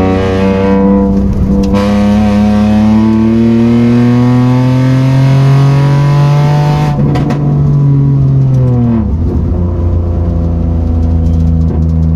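Toyota Aygo's 1.0-litre three-cylinder 1KR engine pulling hard, its pitch rising steadily for about seven seconds, then falling away as the throttle comes off and settling to a steadier, lower note. This is the engine the owner says is dying after overheating.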